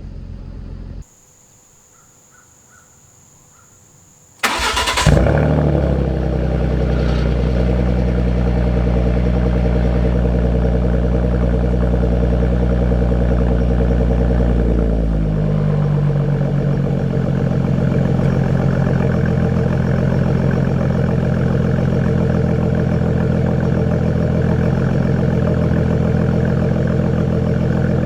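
Ford Mustang V6 engine started: a short burst of starter cranking about four seconds in, then the engine catches and runs at a raised idle that drops and settles into a steady idle about fifteen seconds in.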